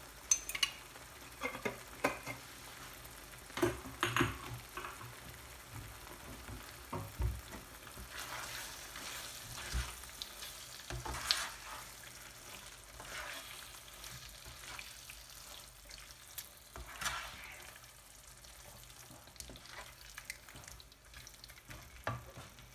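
Thick beef masala sizzling in a nonstick frying pan while a spoon stirs and scrapes through it, with scattered knocks of the spoon on the pan. The water has cooked off and the masala is being fried down (bhuna).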